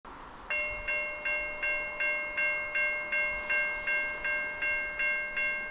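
Railway level-crossing warning bell ringing at a steady, even rate of about three strokes a second, starting about half a second in.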